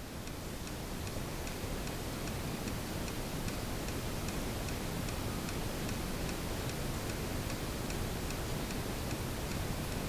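Steady, faint ticking, about two ticks a second, over a constant low rumbling hiss of room noise.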